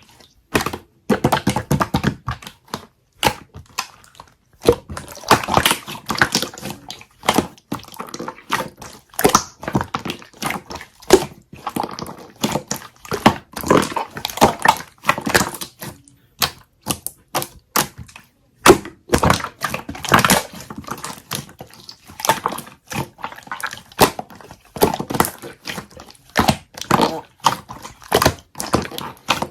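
Hands squishing, folding and stretching a soft, sticky slime, making quick irregular clicking, popping and squelching sounds with brief pauses.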